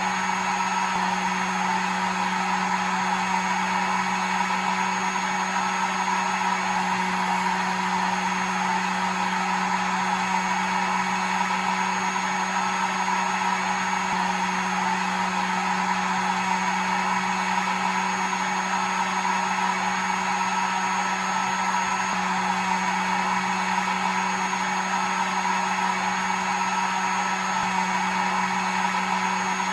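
Hair dryer running continuously: a steady, even blowing hiss with a constant motor hum underneath, unchanging throughout.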